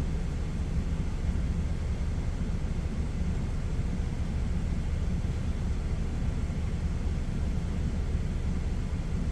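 Steady low rumble of a semi truck's idling diesel engine, heard from inside the cab.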